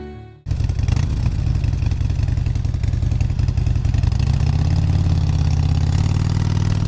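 An engine running steadily, cutting in suddenly about half a second in, with a slight rise in revs around the middle.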